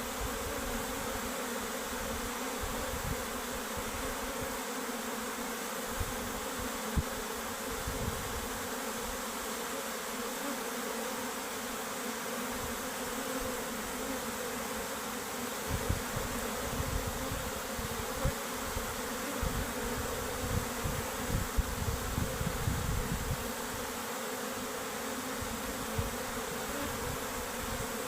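Honey bees buzzing as a swarm, a steady drone, with occasional low thumps.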